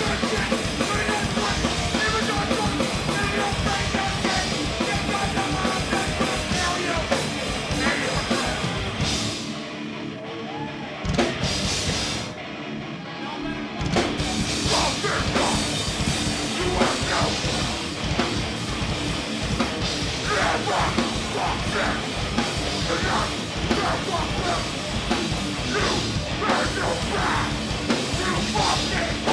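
Hardcore punk band playing live: loud distorted guitars, bass and pounding drums with shouted vocals. The band drops out briefly about ten seconds in, then crashes back in at full volume.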